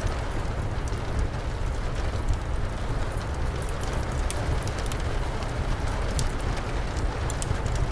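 Steady rain with a low rumble under it, and scattered sharp crackles of a wood fire through it.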